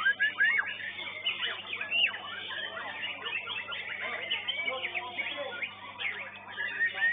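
Many caged songbirds singing over one another, a dense mix of chirps and quick series of arching whistled notes. A steady low electrical hum sits beneath.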